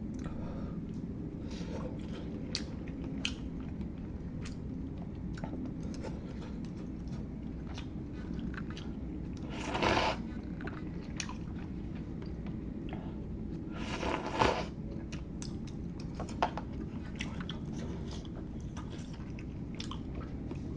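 Close-miked mouth sounds of a person eating instant hot pot noodles: steady chewing with many small wet clicks, and two louder, longer sounds about halfway through and again a few seconds later.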